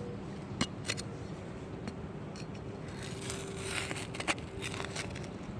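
Digging in rocky soil: a tool scraping through dirt and clicking against small stones, with separate short scrapes and a denser scratchy stretch about three seconds in.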